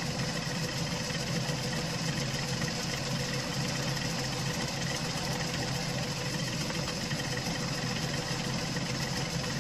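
Metal lathe running steadily with a steady whine from its motor and gearing while a cutter is fed into the side of a metal tool arm, working through it.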